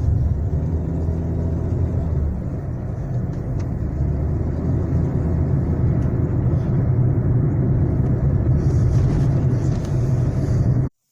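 Lada Kalina 2's 1.6 VAZ-21126 engine running steadily under load with a low rumble, its pitch shifting slightly; the sound cuts off abruptly near the end. The engine is fully hot, and its hydraulic lifter knock has eased a little as the temperature rose.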